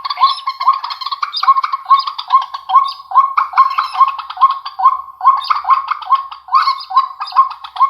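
Recorded bird calls played through a small amplifier and loudspeaker: a fast, even train of short chirps, about three a second.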